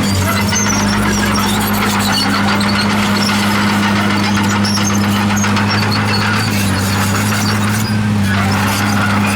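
Komatsu D51PX crawler bulldozer working, its diesel engine running at a steady pitch, with a squealing, grinding noise from the machine over it.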